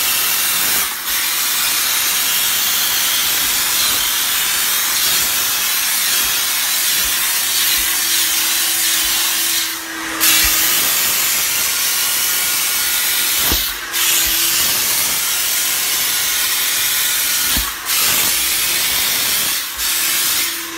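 Steam car wash machine's steam gun jetting steam: a loud, steady hiss, cut off briefly about five times as the trigger is released and squeezed again. A faint hum comes and goes under it.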